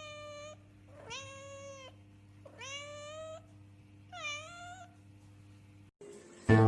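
Domestic cat meowing four times, each call about half a second to a second long and rising then falling in pitch, over a steady low hum.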